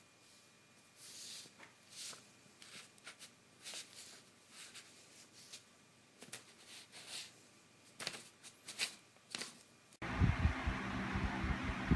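Soft, scattered rustles and clicks, each brief and irregularly spaced. About ten seconds in, a louder stretch suddenly begins, with low thuds over a steady hiss.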